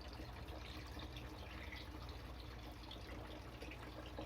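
Faint, steady trickle of running water from an aquaponics system, over a low steady hum.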